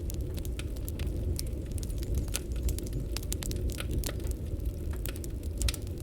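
Burning firewood crackling, with irregular sharp pops and snaps over a steady low rumble of the fire.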